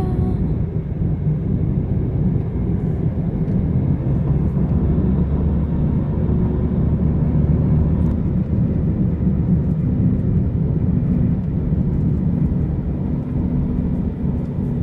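A car driving with a steady low rumble of engine and road noise.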